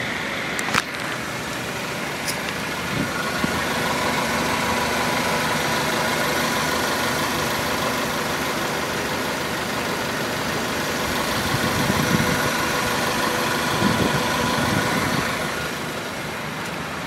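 Mazda 3's 1.6-litre inline-four engine idling steadily, with a sharp click about a second in.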